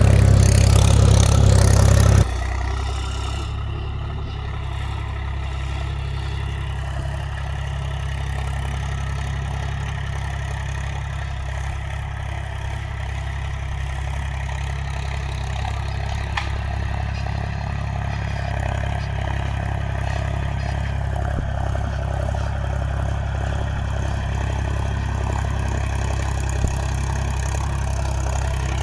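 Mahindra 275 DI TU XP Plus tractor's three-cylinder diesel engine running, louder for the first two seconds, then dropping suddenly to a steady idle.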